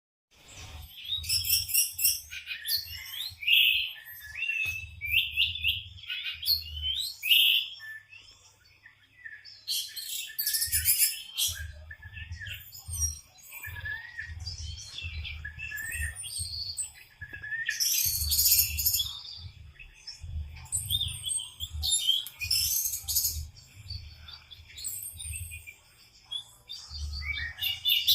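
A songbird singing in a long, varied stream of high chirps, trills and rapid phrases, a frenzied burst of song that its keeper calls 'teler'. Irregular low thumps and rumbles run underneath, and the song pauses briefly about eight seconds in.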